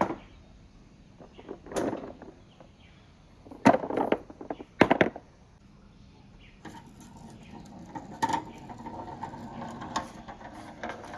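Hard marbles knocking and clattering in a PVC-pipe and rain-gutter marble run, a few sharp knocks in the first five seconds, then a steady rolling rumble with small clicks from about seven seconds in.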